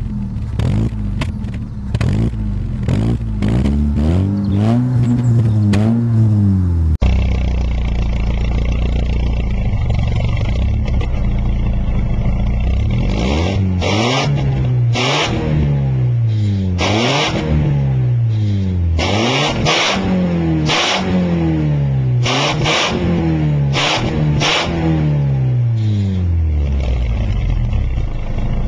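Car exhaust sound test: an engine is revved repeatedly, its note rising and falling with each blip. About seven seconds in, a different car takes over. It runs steadily for a few seconds, then gives a series of about eight quick revs, roughly one every second and a half.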